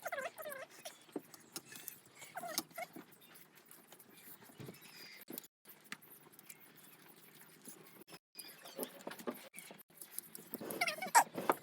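Close-up eating sounds of people slurping and chewing ramen noodles, with irregular small clicks and smacks, busier near the start and near the end.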